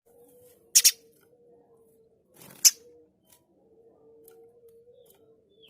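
Spiderhunter (pijantung gunung) giving short, harsh, high-pitched call bursts: a quick double call about a second in and a single one near three seconds, over a faint steady hum.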